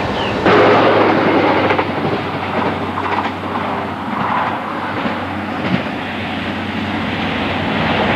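Train running along the track, its wheels clattering over the rail joints over a steady low hum, getting suddenly louder about half a second in.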